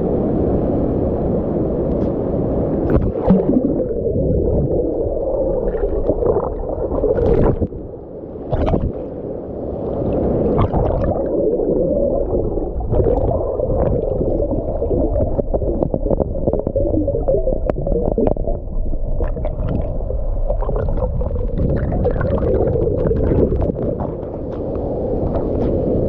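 Water heard underwater from a camera submerged in the weir pool below a waterfall: a steady, muffled rumble of falling and churning water, with scattered clicks and knocks. The sound dips briefly about eight seconds in.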